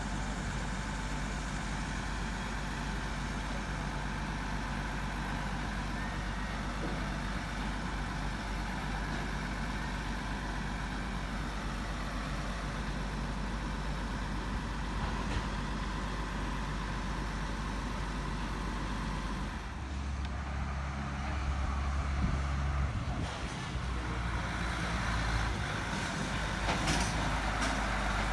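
Truck engine running steadily, its low rumble growing stronger and changing about twenty seconds in.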